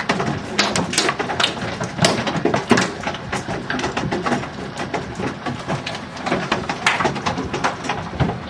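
Hailstones striking hard surfaces: a dense, irregular clatter of many sharp impacts, some much louder than others, without let-up.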